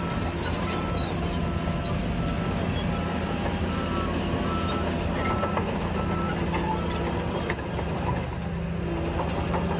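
Heavy earthmoving machine's diesel engine running steadily while its reverse alarm beeps about once every three-quarters of a second; the beeping stops about halfway through.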